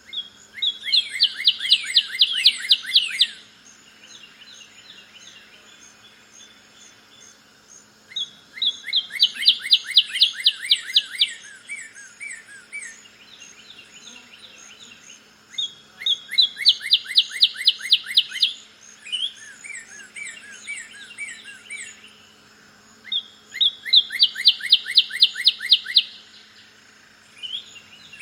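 Northern cardinal singing: four loud phrases of rapid repeated whistled notes, one about every seven seconds, with softer calls of other birds in between.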